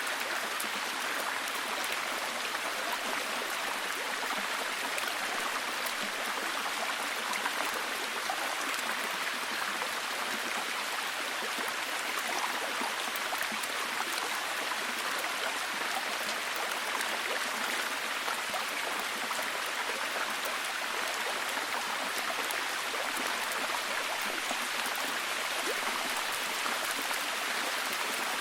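Steady heavy rain: an even hiss of falling rain with fine drop patter throughout.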